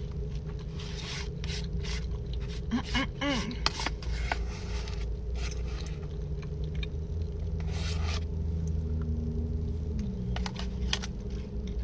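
Close-up eating sounds: fries being chewed, with short clicks, scrapes and rustles from handling the food and its packaging, over a steady low rumble and hum.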